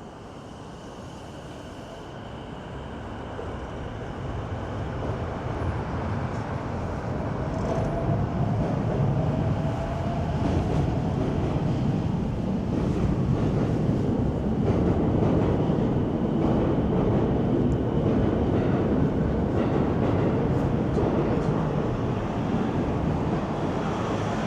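A low rumbling noise that builds over the first eight seconds or so and then holds steady and loud.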